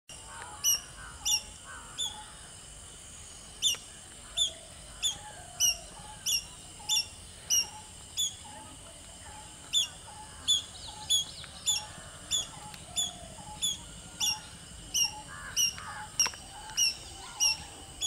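A bird repeating a short, sharp call about every two-thirds of a second in runs, pausing twice. A steady high whine and faint chirps of other birds are behind it.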